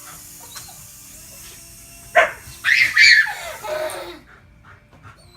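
Dog barking excitedly: one sharp bark about two seconds in, then a longer run of yelping barks that fades out, over a faint steady hum.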